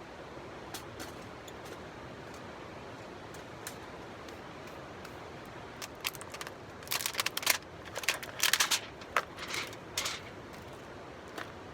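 Campfire crackling: scattered small pops and snaps over a steady hiss, with a run of louder crackles about seven to ten seconds in.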